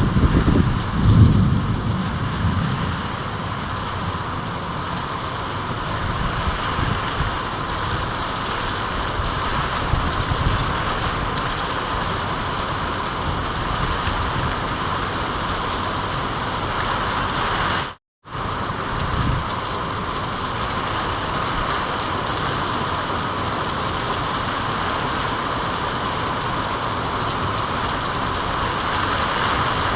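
Steady, even rain. A low rumble comes through in the first couple of seconds, and the sound cuts out completely for a split second about eighteen seconds in.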